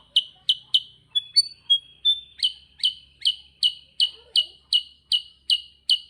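A kutilang sutra bird singing in a continuous roll of sharp, evenly repeated chirps, about two to three a second. About a second in, the chirps break for a few short, thin whistled notes, then resume.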